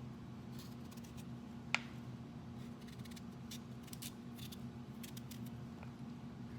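Vegetable skin being peeled with a blade: short, irregular scraping strokes, with one sharp click a little under two seconds in, over a steady low hum.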